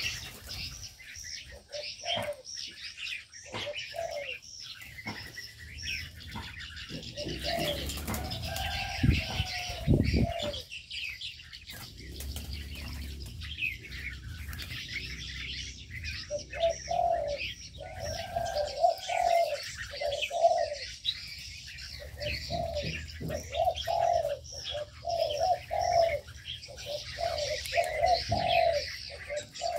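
Doves cooing in repeated runs of low notes, over a constant chatter of small birds chirping and twittering. The cooing gets busier in the second half.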